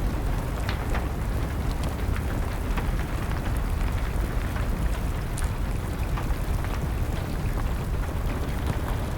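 Steady rain with a low rumble under it, and a wood fire crackling with scattered sharp pops.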